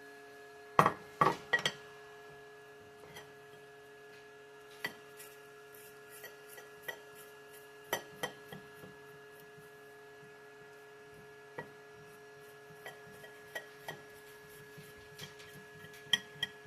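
Knife tapping and chopping on a cutting board as roasted poblano peppers are diced: a quick cluster of sharp knocks about a second in, then scattered lighter taps. Under it runs a steady hum, from a lawnmower battery charging.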